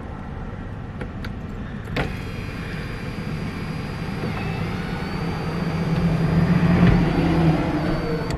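A car's power sunroof motor closing: a click about two seconds in, then a steady electric whir that grows louder for several seconds and eases off near the end.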